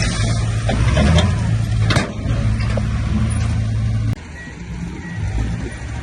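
Heavy diesel earthmoving machinery running steadily, with a sharp knock about two seconds in. The sound drops suddenly just after four seconds.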